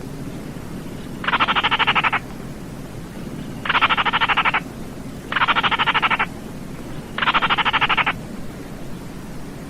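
Baillon's crake calling: four rapid, rattling trills of just under a second each, spaced a second or two apart, over a low steady background hiss.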